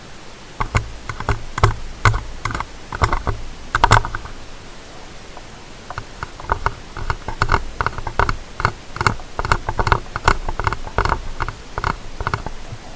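Ear-cleaning tool scraping and tapping in the ear of a stereo ASMR microphone: two runs of rapid, crisp scratchy clicks, the first with a low rumble under it, the second starting about six seconds in, over a steady hiss.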